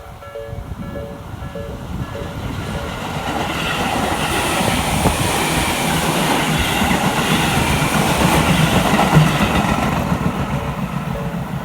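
A Tobu Noda Line train passes over a level crossing. Its wheel and running noise builds over several seconds, is loudest about nine seconds in, then eases off. Through it the crossing's electronic warning bell, a slow-tempo Nikko-type bell, keeps dinging; it is drowned out while the train is close and is heard again near the end.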